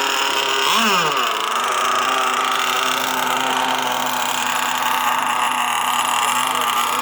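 Shovel-nose RC model powerboat's motor running, with a quick rise and fall in pitch about a second in, then a steady pitch.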